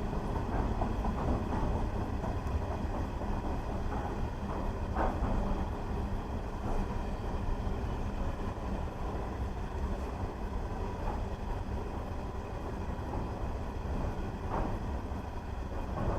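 Freight train rolling through: a steady low rumble of wagons on the rails, with a few faint wheel clicks.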